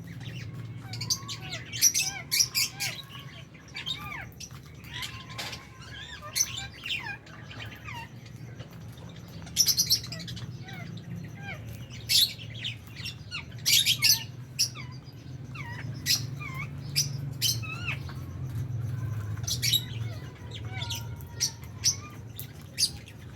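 A flock of lovebirds chirping and squawking, with many short, sharp high calls coming one after another and overlapping, over a low steady hum.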